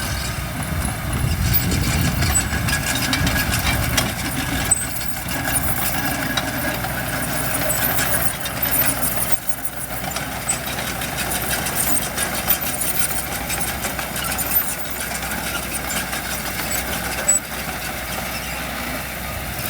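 Diesel engines of heavy construction machinery running steadily, with a few sharp knocks along the way.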